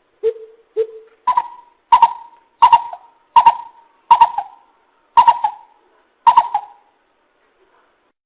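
Greater coucal calling: a series of about nine deep hooting notes. The first two are lower and the rest higher, with the gaps lengthening toward the end.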